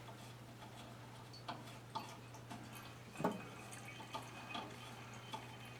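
Gasoline dripping from a small-engine carburetor's opened float bowl, with faint scattered ticks and small metal clicks of the bowl being handled, one a little louder just after three seconds.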